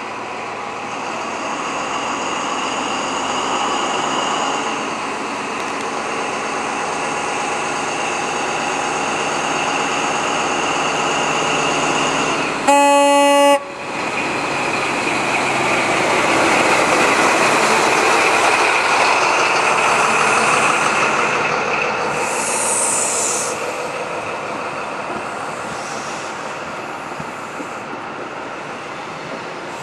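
High Speed Train (InterCity 125) departing: the class 43 power car's diesel engine runs under power as it pulls out and passes, then the coaches roll by. About 13 seconds in comes one short, loud single-tone horn blast.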